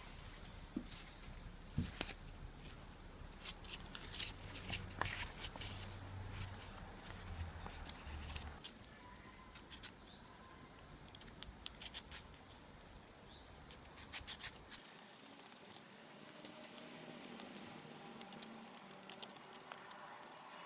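Irregular clicks and short scraping strokes of hand tools working on small metal parts, denser in the first half and with another cluster about two-thirds of the way through.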